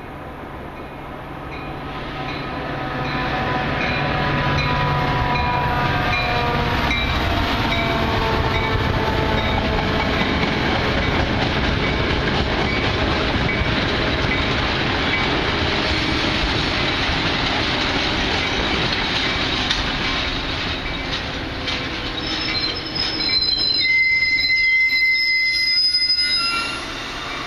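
A train running through the station close by, a steady heavy rail roar with wheels squealing in several shifting pitches on the rails. Near the end, piercing high squeals stand out, then the noise falls away sharply.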